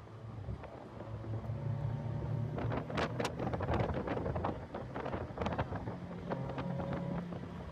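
Heavy wind noise buffeting and crackling on the microphone over a car engine running at speed.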